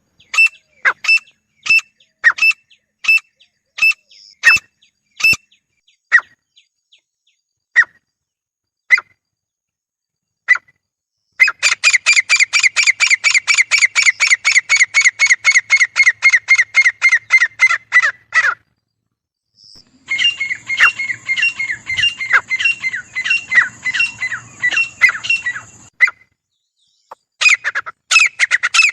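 Grey francolins calling loudly. A string of evenly spaced notes about two a second slows to single notes, then breaks into long, rapid, rattling series of many notes in quick succession, with a short break between series.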